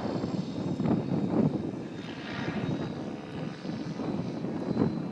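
Align T-Rex 700E electric RC helicopter flying 3D manoeuvres: its main rotor blades chop and whoosh, the noise swelling and fading as it turns, with a faint steady high whine over it.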